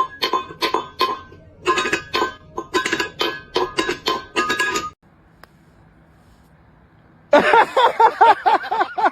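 Plucked-string background music in a bouncy rhythm for about five seconds, then a short lull. Near the end a cat cries loudly in a rapid series of short rising-and-falling calls, about five a second.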